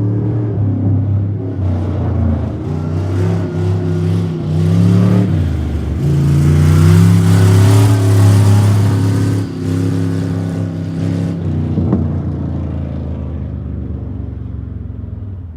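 A car engine revving, its pitch rising and falling several times, then running steadier and fading out near the end.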